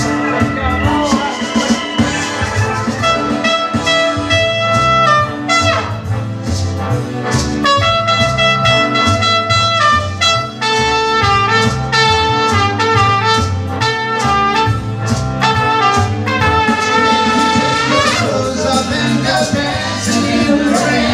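Instrumental passage by a soul-funk band: a horn lead, most like a trumpet, plays held notes and runs of short repeated notes over keyboards, bass and a steady drum beat.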